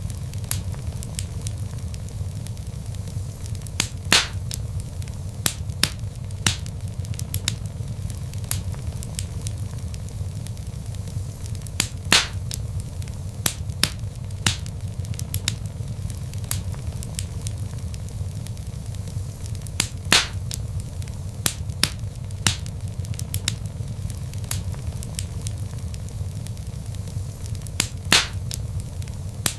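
Wood logs burning in a fireplace: a steady low rumble of flames with frequent sharp crackles and a few louder pops.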